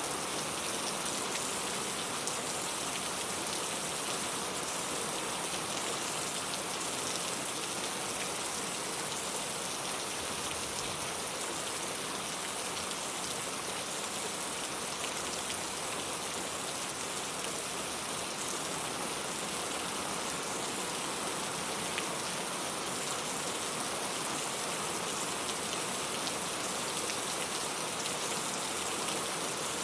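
Steady rain falling, an even hiss of many drops with faint scattered ticks of single drops.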